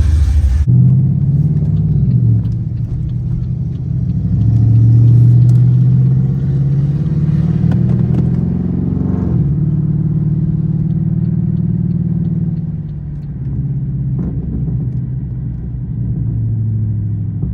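Straight-piped Pontiac G8 GT's V8 exhaust running under way. The low engine note climbs and falls with the throttle: it swells a few seconds in, drops off around nine seconds, then settles into a steady drone.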